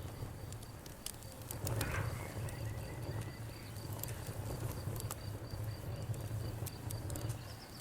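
Campfire crackling, with irregular sharp pops over a steady low rumble of burning, while a cricket chirps steadily in the background.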